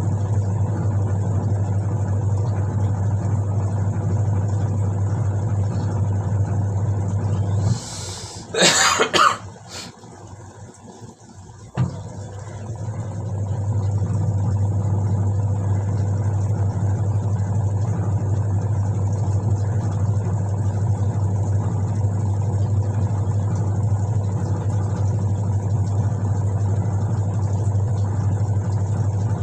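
Whirlpool White Magic Classic washing machine's motor running with a steady hum. About eight seconds in it cuts out for some four seconds, during which a person coughs. Then it starts again and builds back up to a steady run.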